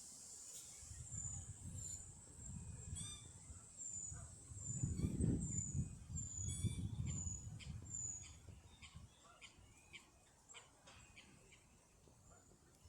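A small bird chirping in short, high, evenly repeated notes, about two a second, over a low rumble that swells to its loudest around the middle and fades away. Faint scattered ticks follow near the end.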